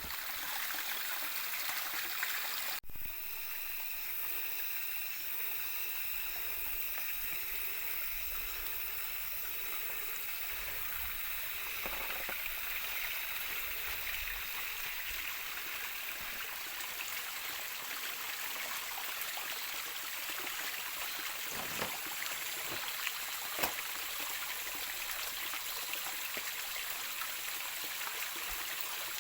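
Steady rushing water with a few faint ticks and taps, cutting out for a split second about three seconds in.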